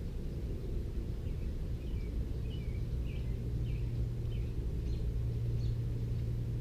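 Wild birds calling, a string of short chirps, about a dozen of them over a few seconds, over a steady low rumble.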